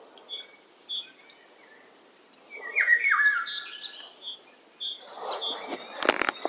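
Wild birds chirping and calling, with short high chirps and then, about three seconds in, a louder run of quick falling call notes. Near the end comes a rustle with several sharp clicks, which is louder than the birds.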